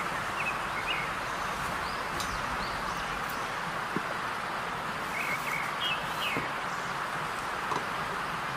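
Small birds chirping in short calls a few times, near the start and again about five to six seconds in, over a steady background hiss.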